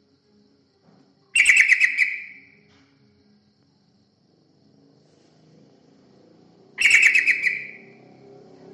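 Yellow-vented bulbul (terucukan) calling: two short calls of rapid chattering notes, about five and a half seconds apart.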